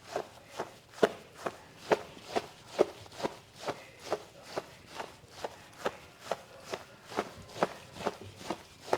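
Hands slapping on skin in a rhythmic percussive massage, about two sharp slaps a second, evenly spaced.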